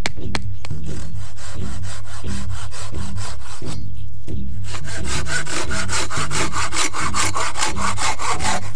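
Hand saw cutting wood in quick, even strokes, with a short break about four seconds in, then louder strokes until near the end.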